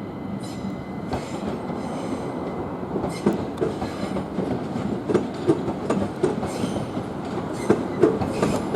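Southern Class 377 electric multiple unit train running past, its wheels clacking over rail joints under a steady rumble. The clacks come more often and louder in the second half.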